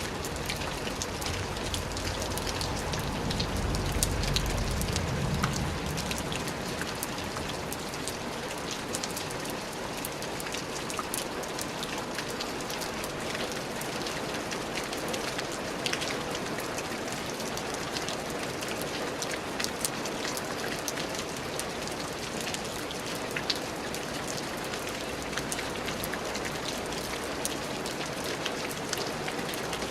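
Steady rain falling on a surface, a constant hiss with many small individual drop ticks. A low rumble swells and fades in the first few seconds.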